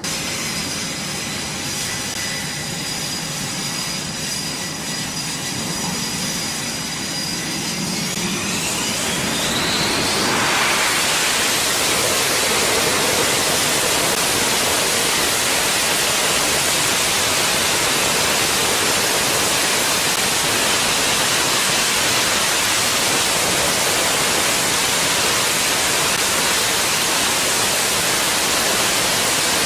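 Jet aircraft engine: a whistling whine that rises in pitch, then a loud steady rush of jet noise from about ten seconds in, as the engine spools up to high power.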